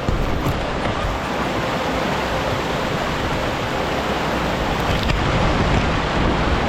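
Steady, loud rush of river water running over rapids.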